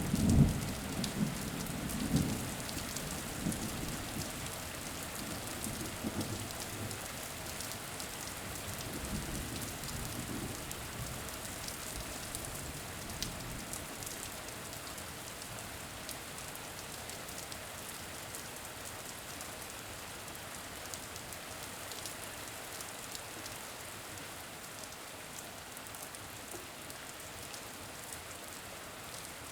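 Steady rain with scattered drops, and a low rumble of thunder that dies away over the first several seconds.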